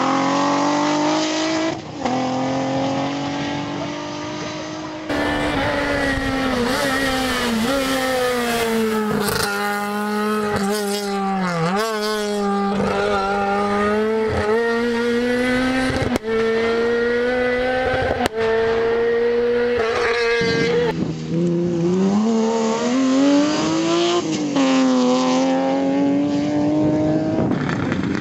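Rally car engines at full load, revving hard and dropping in pitch at each gear change or lift. Several passes are cut one after another, with sudden jumps between them.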